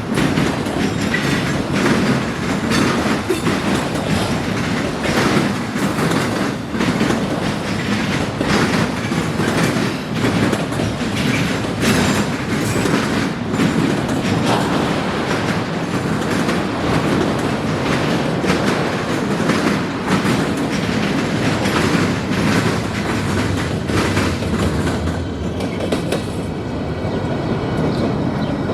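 Freight cars of a long train rolling across a railroad diamond crossing, their wheels clattering and banging over the crossing's gaps in a continuous, irregular run of sharp clicks.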